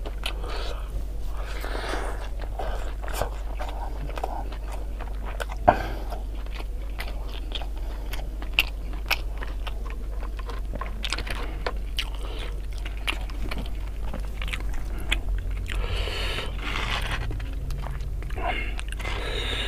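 Close-miked crunching and chewing of crispy deep-fried fritters, with scattered sharp crunches and one louder snap about six seconds in.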